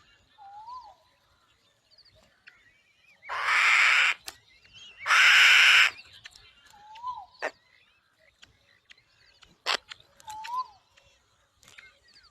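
Birds of prey calling: two harsh, noisy screeches about a second long each, a moment apart near the middle, with a few short, soft rising-and-falling calls and scattered sharp clicks around them.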